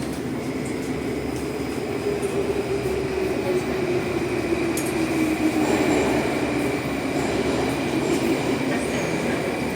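Moscow Metro train running in the tunnel, heard from inside the carriage: a steady rumble of wheels and running gear, with a wavering drone and a thin, steady high whine from the traction equipment.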